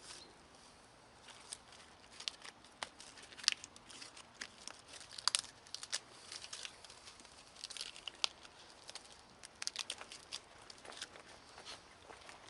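Kindling crackling and snapping: irregular sharp pops and rustles, a few of them louder, with no steady rhythm.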